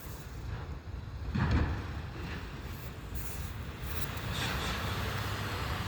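Garbage truck's diesel engine running with a steady low rumble, with a louder surge about a second and a half in and a hissing noise about four and a half seconds in.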